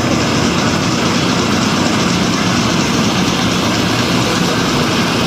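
Car engines running, a loud, steady mechanical noise with no clear rise or fall.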